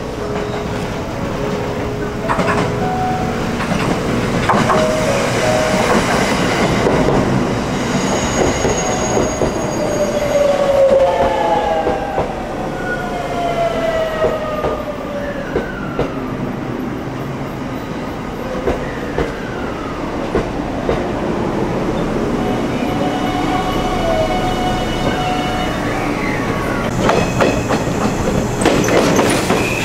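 A white limited-express electric train running in along the platform, its whines falling in pitch about halfway through. Near the end a red local electric train passes on the next track with a fast clatter of wheels over the rail joints.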